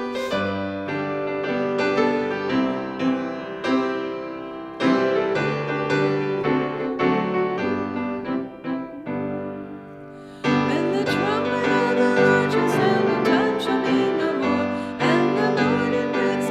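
Keyboard playing a hymn tune in full sustained chords, starting abruptly and growing fuller about two-thirds of the way in.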